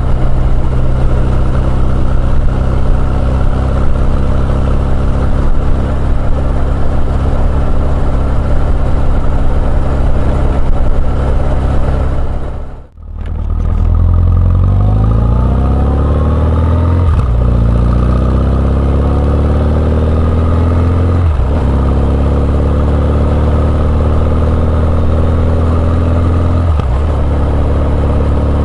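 Honda CB1100EX's air-cooled inline-four running through an R's Gear Wyvern Classic exhaust, heard on board: a steady cruise, a brief drop-out about halfway through, then the engine pulling up through the gears with three upshifts, each a short dip in pitch before it climbs again.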